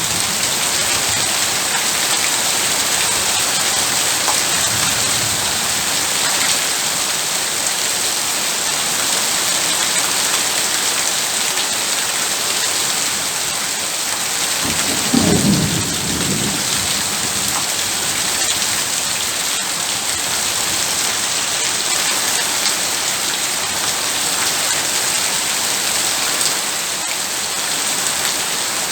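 Heavy rain pouring steadily, a dense even hiss. A short low rumble rises out of it about halfway through.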